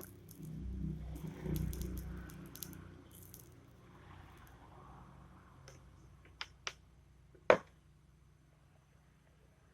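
Handling of small parts at a workbench: rustling and rattling for the first couple of seconds, then a few sharp clicks, the loudest about three-quarters of the way through.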